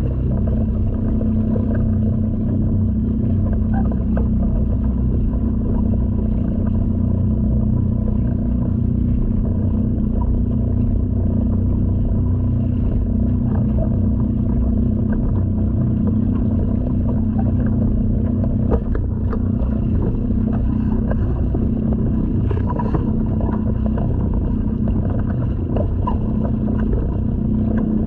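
Honda 2.3 hp air-cooled four-stroke outboard motor running at a steady speed, pushing a sea kayak through the water.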